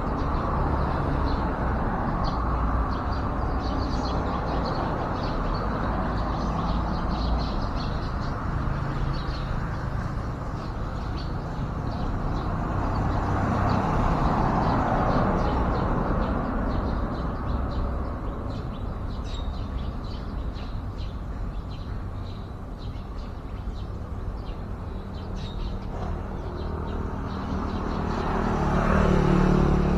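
Steady road traffic, with vehicles passing and the noise swelling about halfway through and again near the end, under frequent short, high bird chirps.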